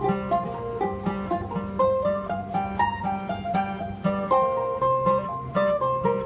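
Plucked acoustic string instruments playing an instrumental passage of quick picked notes over held bass notes, the closing stretch of the song after the last sung line.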